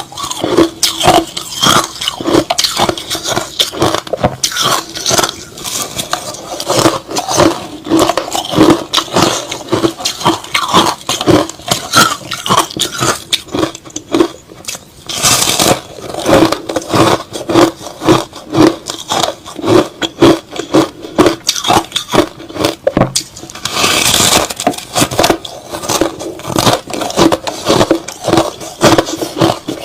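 Crushed ice and slush being chewed close to the mouth, in rapid, dense crunches with a short lull near the middle. There are two brief hissing bursts, about halfway through and about three-quarters through.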